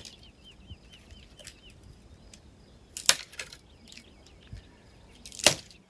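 Firewood being chopped by hand: three sharp, hard strikes on the wood, about three seconds and then two and a half seconds apart, the last the loudest.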